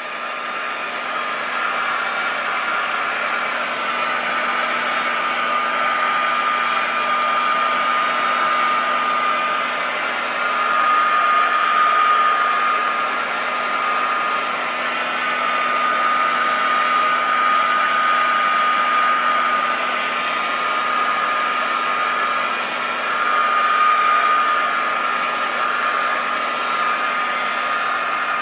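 Heat gun running steadily, its fan blowing with a constant whine, while it warms a warped pinball playfield plastic to soften and flatten it.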